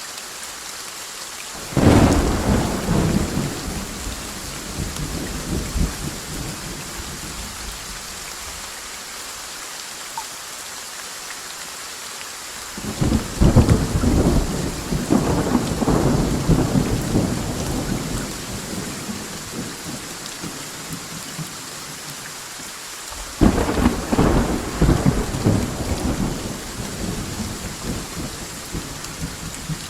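Steady rain with three rolls of thunder, each starting with a sudden crack and rumbling on for several seconds, about ten seconds apart.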